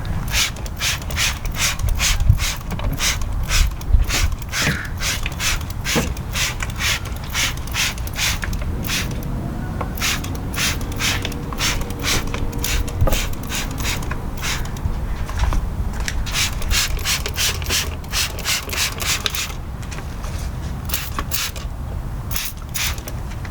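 Trigger spray bottle of Armor All protectant being pumped over and over, about three short hissing squirts a second, with two brief pauses.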